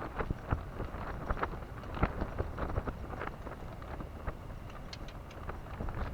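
Wind rumbling on the microphone, with many irregular small clicks and knocks throughout.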